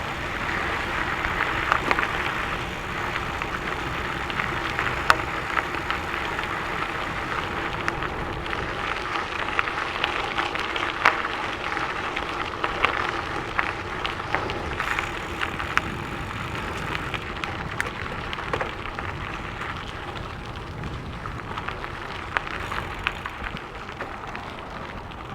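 Gravel bike tyres rolling fast downhill over a gravel trail: a steady crackling crunch of loose stones, with scattered sharper ticks from stones, easing slightly near the end.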